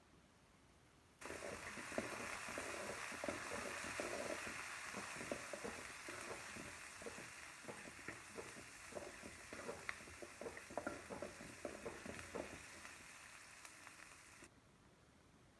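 Chopped onion, garlic, curry leaves and green chillies sizzling in hot oil in a pan as they are stirred with a spoon, with many small clicks and scrapes of the spoon on the pan: the tempering for a kootu. The sizzle starts suddenly about a second in, eases a little, and cuts off abruptly near the end.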